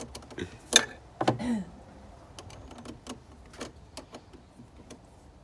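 Scattered sharp clicks and light knocks, the loudest two close together about a second in, then fainter irregular ticks.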